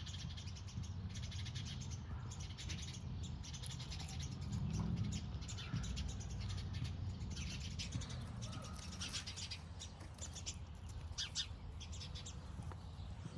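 Small birds giving many short, sharp chirps in quick runs, busiest in the second half: alarm calls at kittens climbing in their bush. A steady low rumble runs underneath.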